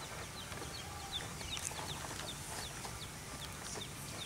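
Small birds chirping: a quick, uneven string of short, high, downward-slurred chirps, several a second, over a steady low background rumble.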